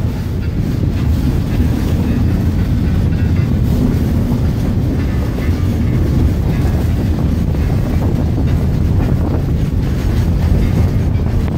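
Passenger train rolling along the track, heard from an open-air railroad car: a steady low rumble of wheels on rails, with wind buffeting the microphone.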